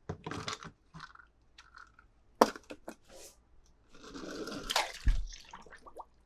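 Hands handling toy cars and their plastic packaging: short crinkling rustles, a sharp click about two and a half seconds in, a longer crinkle, then a dull thump about five seconds in.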